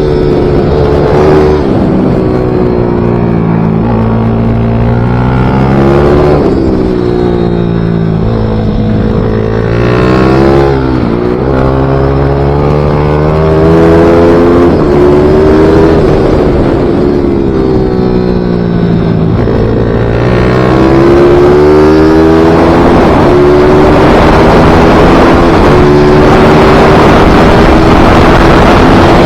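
Racing minibike engine at full throttle on a lap, its revs climbing through the gears and dropping sharply for corners several times, with the biggest drops about 6, 11 and 20 seconds in.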